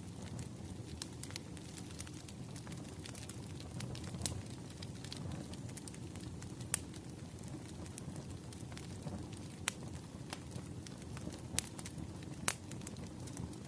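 Wood fire crackling: irregular sharp pops and snaps over a low steady rumble, with a few louder pops scattered through.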